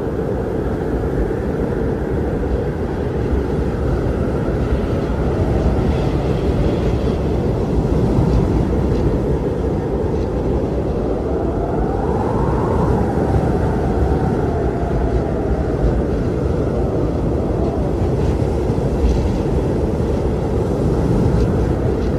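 Strong wind blowing steadily, a deep rushing rumble with a faint whistling howl that rises and falls about twelve seconds in.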